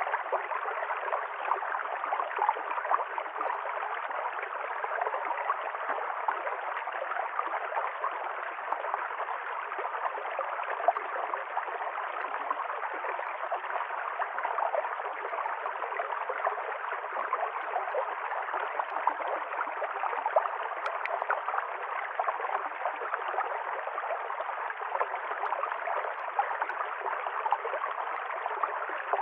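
River stream flowing: a steady rush of running water with a fine gurgling flicker and no let-up.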